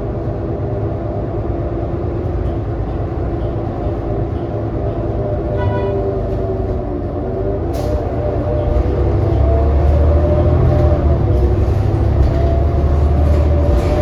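2018 New Flyer XD40 diesel transit bus heard from inside while under way: a low rumble from the engine and drivetrain with several steady whining tones over it, an odd sound that the uploader considers messed up. A short higher tone sounds about six seconds in and a sharp click near eight seconds, and the rumble grows louder from about nine seconds on.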